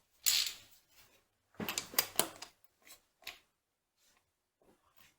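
Hand tools being handled on the machine: a short scrape, then a quick cluster of metallic clicks and scrapes about two seconds in, followed by a couple of light knocks.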